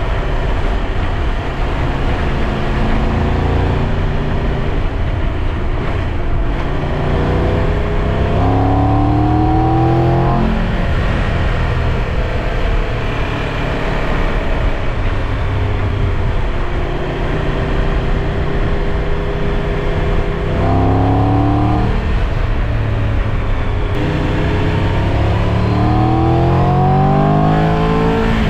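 Triumph Tiger 1200's three-cylinder engine running under way over a steady rush of wind noise. Its pitch climbs as it accelerates about a third of the way in, again around two-thirds of the way through, and once more near the end.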